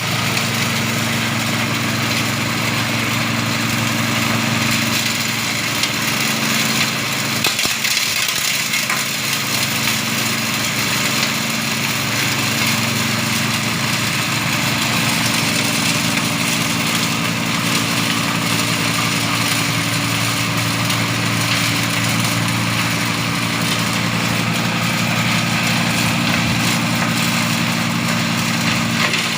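Multifunction chopper machine running steadily, engine hum under a constant hiss as it grinds goat manure into powder.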